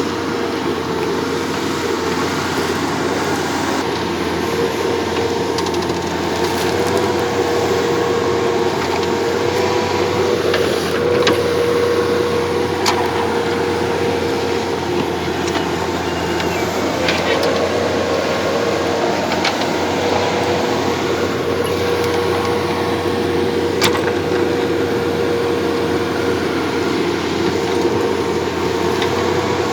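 A machine running steadily with a constant whine, with a few sharp clicks.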